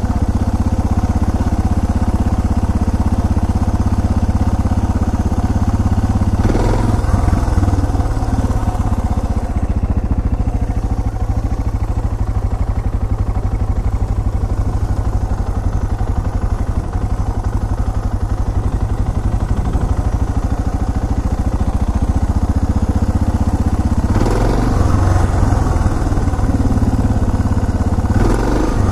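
Suzuki DR650SE's single-cylinder four-stroke engine running steadily as the motorcycle is ridden, briefly louder about six seconds in and again near the end.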